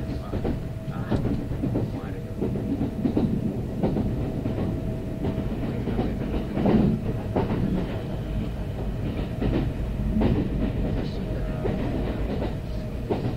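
Running noise heard inside a Kintetsu 9030 series electric train. The wheels knock over rail joints at irregular intervals above a steady low rumble. A faint steady hum fades out about five seconds in and returns faintly near the end.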